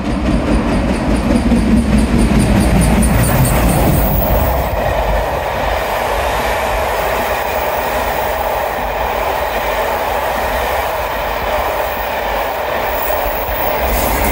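A steam-hauled passenger train passing close by at speed, its carriage wheels running along the rails. It is loudest and deepest in the first few seconds, then settles into a steady rolling noise.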